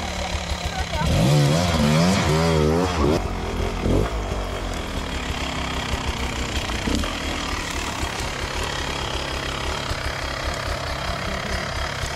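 Two-stroke enduro motorcycle engine running at low revs as it crawls up a rocky climb. Between about one and three seconds in there is a louder stretch whose pitch wavers quickly up and down, with a short sharp knock near four seconds.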